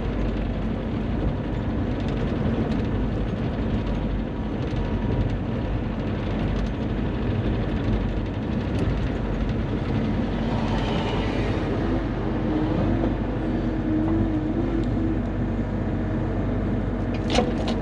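Bobcat E35 mini excavator's diesel engine running steadily as the machine works, with a higher hum coming in for a few seconds past the middle and a single sharp clank near the end.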